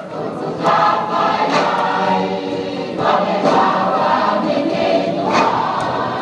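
A group of voices singing together in chorus, with a few sharp percussive hits now and then.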